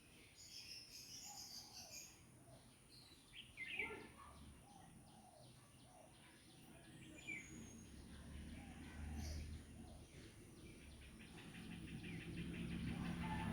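Faint outdoor birds chirping in short high calls, with a low rumble building toward the end.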